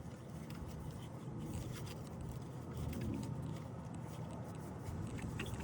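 Faint scraping and handling noises as a spark plug wire boot is worked onto its connector, over a low steady rumble.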